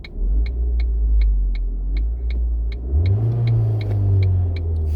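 Car engine being revved while stopped: the engine note jumps up just after the start, then climbs higher about three seconds in and is held there. A turn signal clicks steadily at about two clicks a second the whole time.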